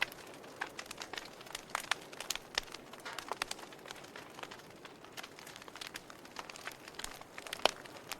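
Wood fire burning in a fireplace: irregular crackles and sharp pops over a soft hiss, with a louder pop near the end.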